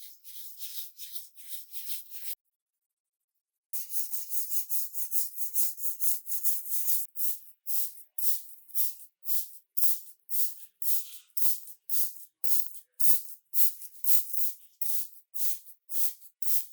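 Rhythmic back-and-forth rubbing strokes on a small part, about two to three a second, pausing for about a second and a half near the start.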